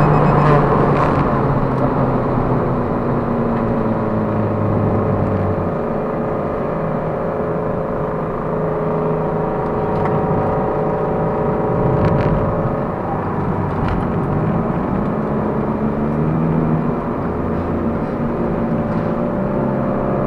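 Race-prepared Toyota Prius (ZVW30) with its stock 2ZR-FXE four-cylinder engine, heard from inside the cabin on track: a steady engine drone over road and tyre noise, its pitch shifting a little now and then. A few brief sharp knocks come around the middle.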